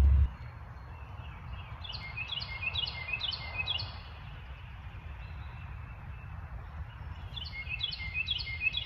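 A songbird singing a run of about six quick down-slurred whistled notes, about two seconds in and again near the end, over a steady low rumble. A low hum cuts off just after the start.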